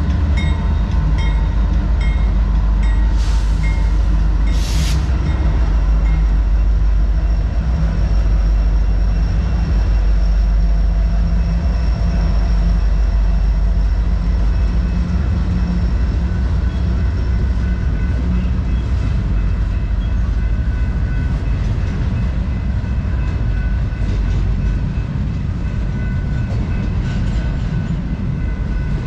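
Long intermodal freight train rolling past close by: a steady heavy rumble of wheels on rail, with a thin metallic ringing over it and two short hisses a few seconds in.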